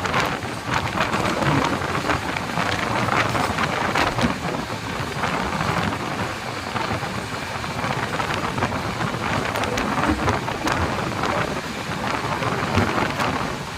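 Express train running at speed: a steady, loud rush of wheels on rails, with many rapid clicks and clatters over it.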